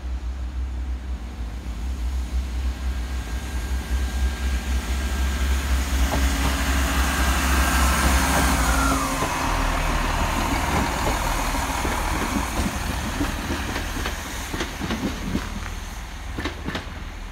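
Chiltern Railways diesel multiple unit passing through the station without stopping. Its running noise builds to a peak about eight seconds in, and a whine drops in pitch as it goes by. A run of wheel clicks follows as it draws away.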